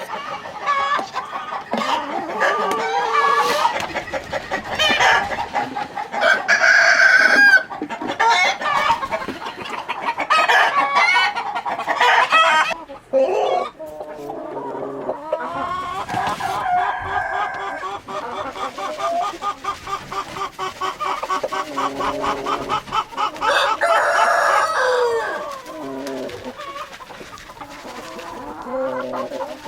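A flock of chickens clucking and calling over one another, with a rooster crowing.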